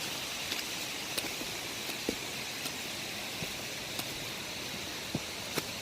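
Steady rush of rain-swollen running water, with a few faint, irregular clicks over it.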